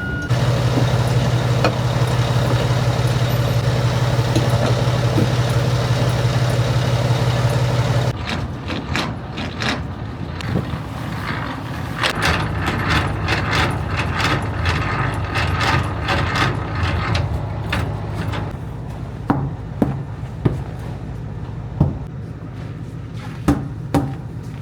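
A truck engine running steadily with a strong low hum for about eight seconds. Then the sound changes suddenly to a lighter rumble with scattered clicks and rattles, and a few sharp knocks near the end.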